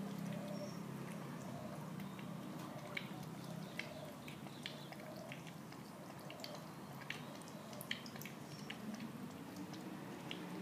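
Wet clicks and smacks of a month-old puppy's mouth as it feeds, irregular and scattered, over a low steady hum that fades about four seconds in.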